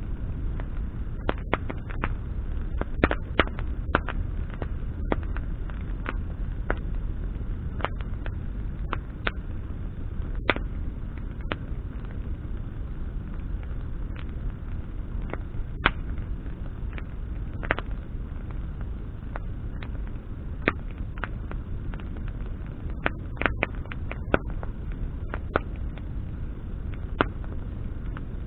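Wood campfire burning, with irregular sharp crackles and pops of burning branches over a steady low rumble.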